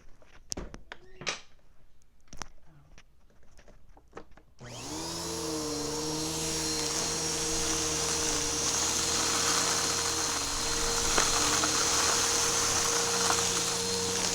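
A few light clicks and knocks of handling, then about four and a half seconds in a vacuum cleaner switches on abruptly and runs steadily, its motor hum holding one pitch with a lower tone wavering beneath it.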